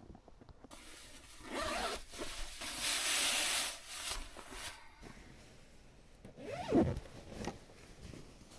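A zip being pulled, with a long rasping pull about three seconds in amid shorter rubbing and rustling.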